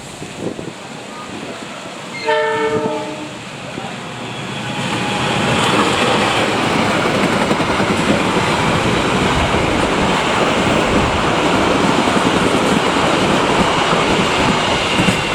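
A long-distance passenger train sounds one short horn blast about two seconds in. It then passes close by, a loud steady rush of wheels on rails that builds from about four seconds in.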